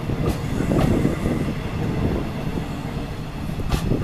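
Korail A-Train passenger cars rolling past as the train pulls out, a steady low rumble with a few sharp wheel clacks on the rails, one shortly before the end.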